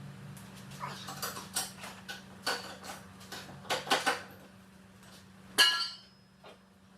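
Metal tools and parts clinking and clanking as they are handled during engine work: a run of sharp clinks, then one louder ringing clank about five and a half seconds in, over a steady low hum.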